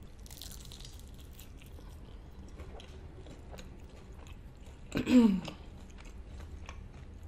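A close bite into a crisp, fried birria queso taco with a short crunch, then wet chewing with small clicks of the mouth. About five seconds in, a brief hummed 'mm' with falling pitch.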